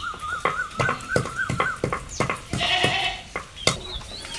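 An animal's wavering, quavering call, with a shorter cry about three seconds in, over a run of sharp knocks.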